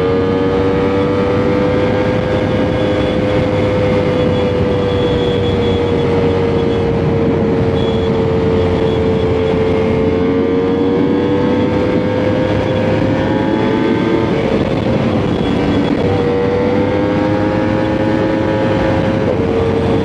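Sport motorcycle engine running at sustained high revs while riding, its note drifting slightly up and down with the throttle, over steady wind and road noise.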